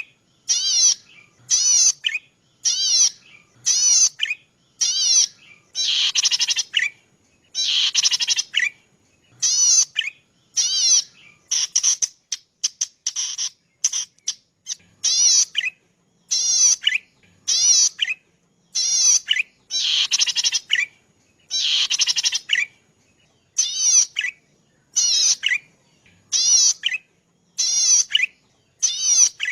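Cici padi (prenjak padi), a small grassland warbler, calling over and over. Each call is short and high-pitched with a quick rippling pattern, repeated roughly once a second with brief gaps.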